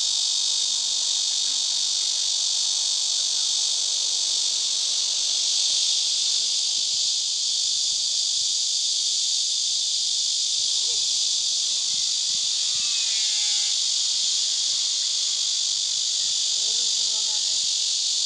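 Cicadas singing: a steady, loud, high-pitched buzzing drone without a break. A few fainter wavering calls rise and fall over it about two thirds of the way through and again near the end.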